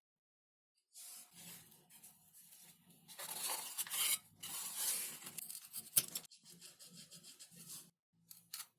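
Hand crafting work on XPS foam model parts: rough rubbing and scraping noises for several seconds, with a sharp click about six seconds in and two short scrapes near the end.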